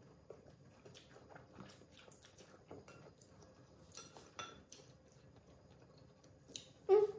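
Close-up eating sounds: chewing and wet mouth smacks, with light clicks of chopsticks against plates. A brief, louder sound with a clear pitch comes near the end.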